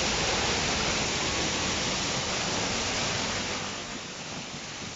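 Waterfall, heard up close: a steady rushing of falling water that eases off a little about four seconds in.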